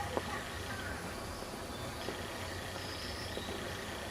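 Outdoor forest ambience: a steady low rumble with a few faint, short, high bird chirps.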